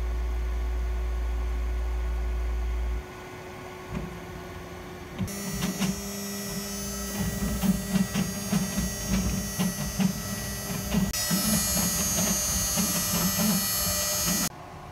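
A ShopBot CNC router's spindle whining at high pitch while its bit cuts into an apple, with irregular ticks and crackles from the cut. Before it, a steady low hum for the first three seconds; the whine stops abruptly shortly before the end.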